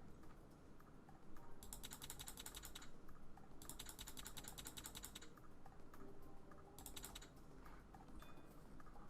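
Faint runs of rapid, evenly spaced clicking, like typing on a computer keyboard: three runs, the first two lasting over a second each, the last brief near the end.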